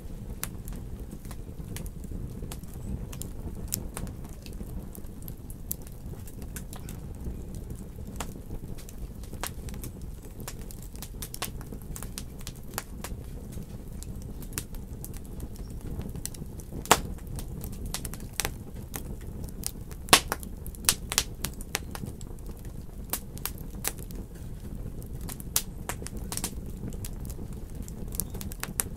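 Wood burning in a fireplace, crackling and popping over a steady low rumble of the flames. The snaps come irregularly throughout, with a few sharper, louder pops about 17 and 20 seconds in.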